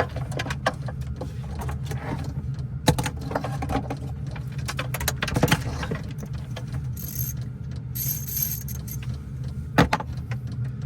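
Repeated clatter, knocks and rattles of gear and small objects being handled and moved about, over the steady low hum of a running diesel heater.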